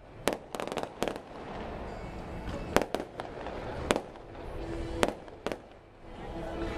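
Aerial fireworks shells bursting overhead: sharp bangs at irregular times, with a quick cluster of several in the first second and then single reports roughly every second, over a steady background din.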